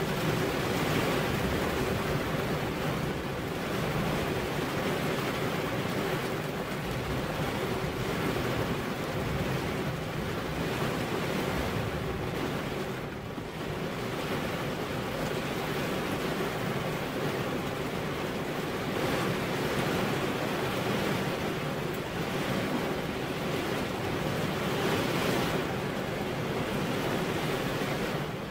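Gentle rain on a window pane: a steady hiss that swells and eases a little, with a brief dip about halfway through.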